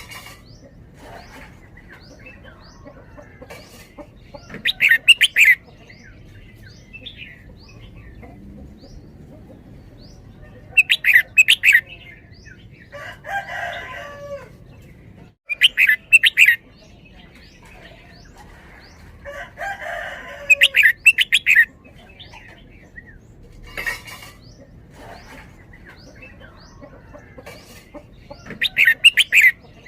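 Red-whiskered bulbul singing: five loud, short bursts of rapid high notes spread across the stretch. A softer, lower warble comes twice in between, over faint scattered chirps.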